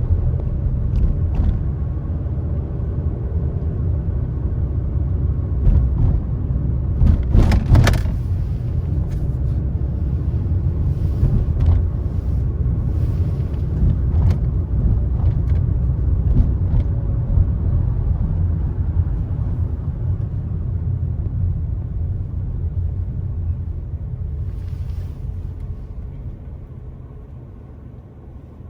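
Car driving on a country road: steady low rumble of tyres and engine, with scattered light clicks and a loud cluster of knocks about seven seconds in. The rumble dies down over the last few seconds.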